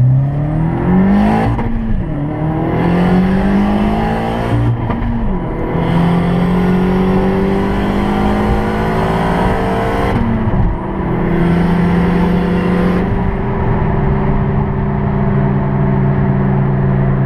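Turbocharged Audi A4 1.8T with a GT3071R turbo accelerating hard through the gears. The engine climbs in pitch and shifts up about a second and a half in, again near five seconds and near ten and a half seconds, with a hissing rush over the engine during each pull. For the last few seconds it settles to a steady cruise.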